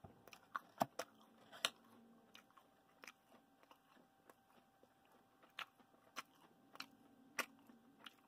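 A person chewing a bitten Burger King ghost pepper chicken nugget with a crisp breaded coating: faint, irregular crunches and mouth clicks. Several come close together in the first two seconds, then they are spaced about a second apart.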